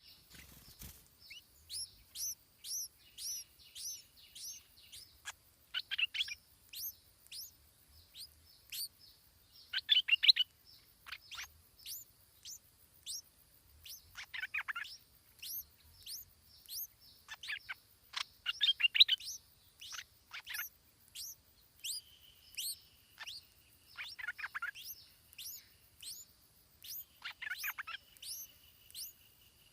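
A songbird chirping over and over in short, high, falling notes, about one or two a second, with bursts of rapid, louder chattering notes every few seconds.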